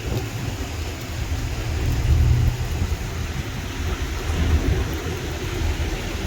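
Traffic going by on a rain-wet road: the hiss of tyres on water over a low engine rumble that swells as vehicles pass, about two seconds in and again past the middle.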